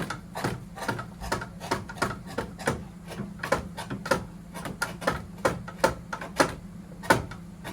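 Machine shaping a wet wooden clog: a steady motor hum with a regular knocking about two to three times a second as the cutter works the wood.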